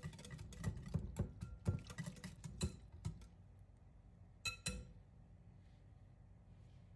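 Wire whisk beating barbecue sauce in a bowl: a quick run of faint clicks against the bowl for about three seconds, then two ringing taps on the bowl a little past the middle.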